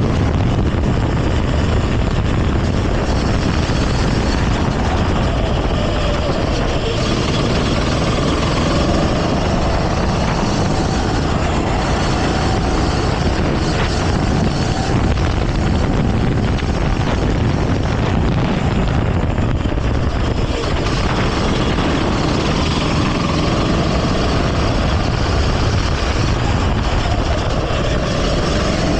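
Go-kart engine running hard during a race, its pitch rising and falling as the throttle is worked, over a heavy steady rumble.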